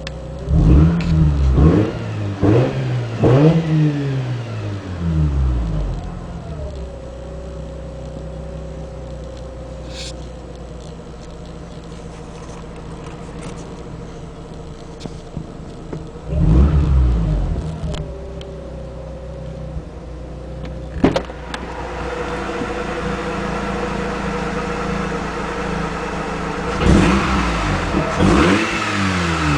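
Mazda RX-8's two-rotor Renesis rotary engine, heard from inside the cabin, revved in quick blips that rise and fall back to idle. There are several blips near the start, one more about halfway through and a couple near the end, with a steady idle between them.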